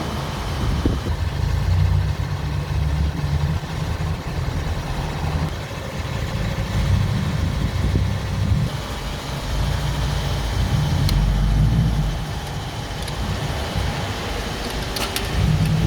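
Car running, a loud, uneven low rumble throughout.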